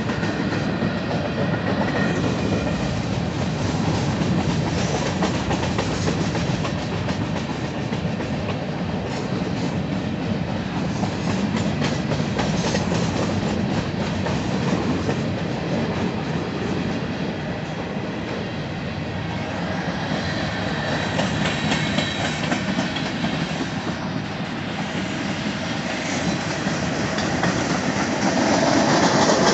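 A long Union Pacific freight train's cars rolling past at speed, wheels clacking steadily over the rail joints, growing a little louder near the end.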